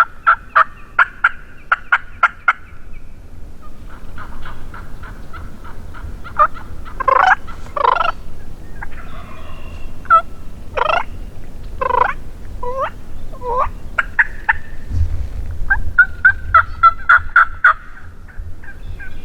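Wild turkey calls: runs of quick, evenly spaced yelps near the start and near the end, with louder falling calls and gobbling between them, as a gobbler is being called in.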